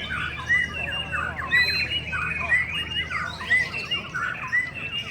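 Many caged white-rumped shamas singing at once in a songbird contest, a dense tangle of overlapping phrases. A short clear note repeats about once a second and stands out above the rest.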